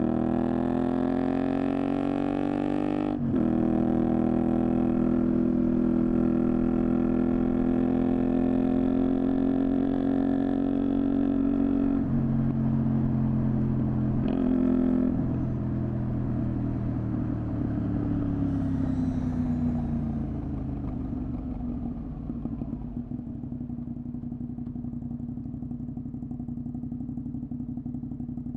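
Honda VTR250's 90-degree V-twin through a Moriwaki aftermarket exhaust, ridden: revving up, shifting up about three seconds in, then holding a steady note. Near the middle the engine note changes twice, then falls away as the bike slows over several seconds and settles to a steady idle.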